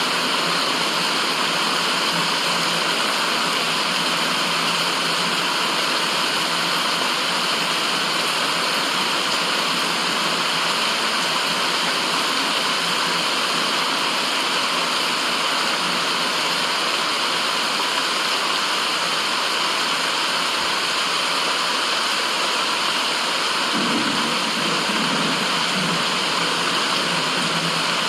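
Steady white noise: an even, unchanging rushing hiss with no rhythm or tone, of the waterfall or stream kind.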